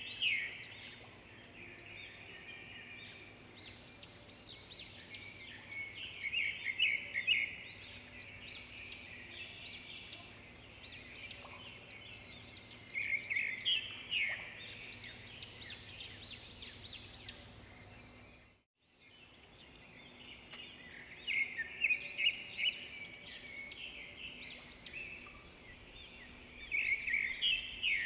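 Songbirds chirping and singing, many short overlapping calls and trills, some louder and some fainter, over a low background hum. The sound drops out completely for about half a second partway through, then the birds continue.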